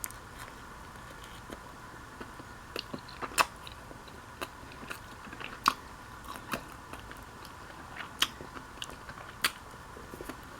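A person chewing a Subway sandwich with the mouth close to the microphone: irregular, scattered wet clicks and crunches, a few louder ones about three and a half and five and a half seconds in.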